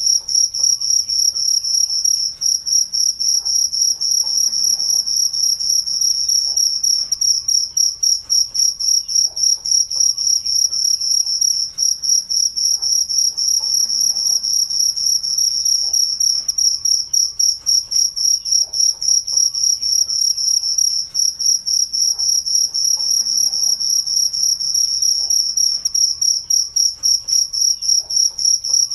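Crickets chirping in a continuous, fast-pulsing high-pitched trill that holds one even pitch.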